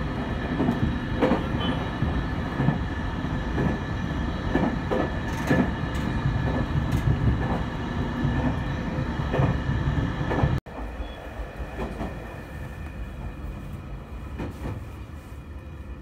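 E721 series electric train running at speed, heard from inside the front car: a steady rumble with a faint steady whine and irregular clicks as the wheels pass over the rails. A little over ten seconds in, the sound cuts off abruptly and gives way to quieter running noise.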